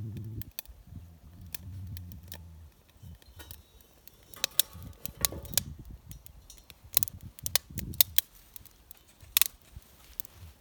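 Irregular sharp metallic clicks and clinks, as of steel pieces being handled while building an iron fire pit, with the loudest clicks in the second half. A low hum runs through the first few seconds.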